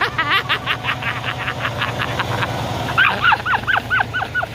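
Birds calling: a quick series of short repeated notes, then a run of rising-and-falling honking calls about three a second, over a low steady hum.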